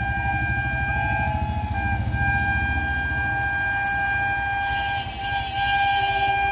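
Indian Railways locomotive horn sounding one long held blast, breaking off briefly about five seconds in and then resuming, over the low rumble of a train running at speed.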